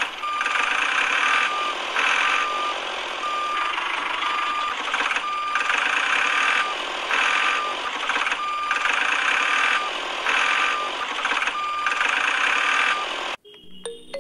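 Vehicle reversing alarm beeping a single steady tone about once a second over continuous engine-like running noise. It all cuts off suddenly near the end.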